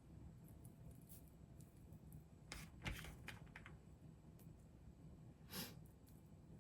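Near silence: quiet room tone with a few faint clicks and taps in the middle and one short swish near the end.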